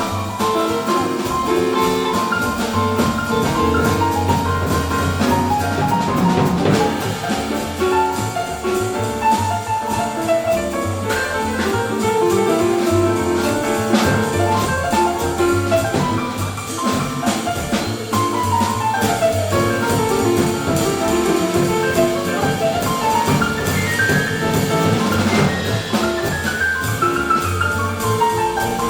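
A small jazz band playing live: flugelhorn, piano, guitar, double bass and drum kit. Quick runs of notes rise and fall over the bass and drums in the second half.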